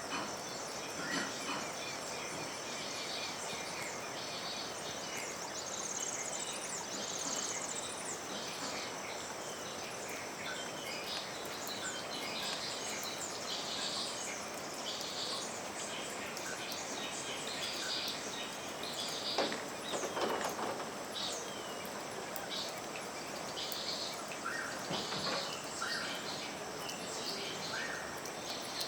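Outdoor ambience of birds chirping and calling in short repeated notes, with a few rising whistled calls, over a steady high-pitched insect trill and a background hiss.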